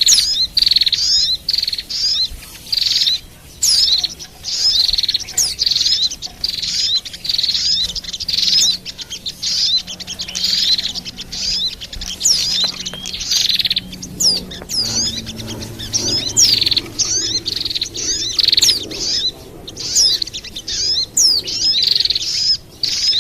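Bird-lure recording of small songbirds (white-eyes, sunbirds and prinias): rapid, high chirping and twittering in short phrases repeated over and over.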